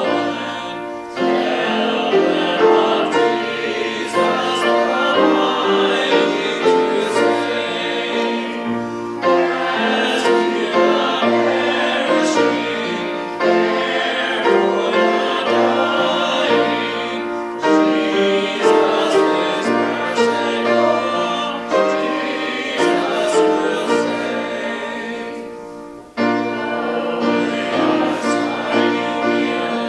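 Church hymn music: piano accompanying singing voices, moving in phrases of a few seconds, with a short break near the end.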